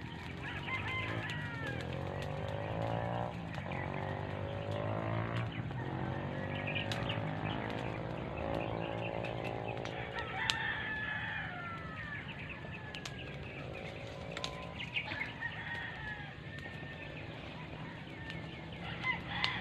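Birds calling: several long, drawn-out calls one after another, with shorter chirps over them and a steady low hum underneath.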